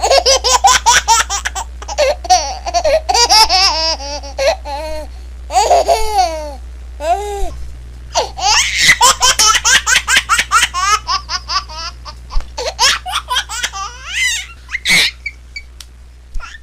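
Baby laughing hard in rapid runs of short, high-pitched giggles, with a couple of long gliding squeals between two main bouts of laughter. A steady low hum runs underneath.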